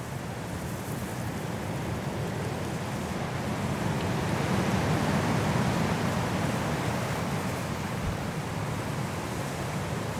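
Strong wind blowing through trees in a snowstorm, a steady rushing that swells into a gust about halfway through and eases off toward the end.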